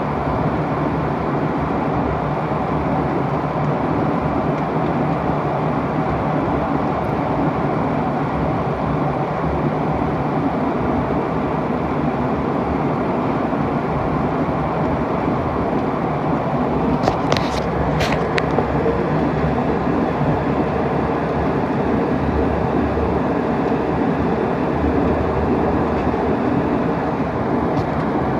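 Steady roar of an airliner's cabin, jet engine and airflow noise heard from inside, with a few sharp clicks a little past the middle.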